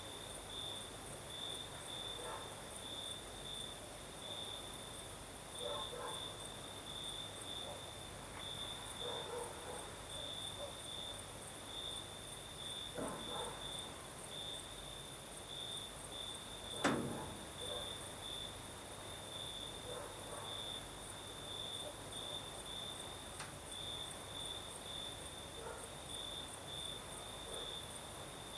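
Crickets chirping in a steady, rapidly pulsing trill at one pitch, with a higher continuous insect hiss above it. A single sharp click or knock stands out past the middle.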